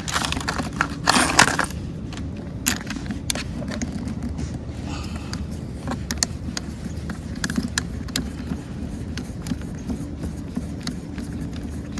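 Garden hose coupling being threaded by hand onto the pressure washer's water inlet: scattered light clicks, small rattles and scrapes of the fittings, over a steady low background rumble.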